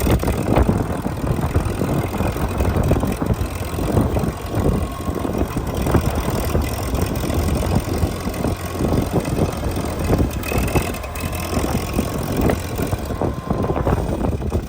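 Case 800 tractor's propane-fuelled engine running, a steady rough low-pitched engine sound.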